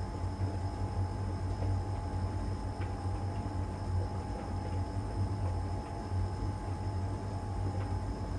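LG heat pump tumble dryer running mid-cycle: a steady low hum with a thin whine above it and a few faint knocks of laundry tumbling in the drum. Near the end the whine stops and the sound begins to die away as the drum slows before reversing direction.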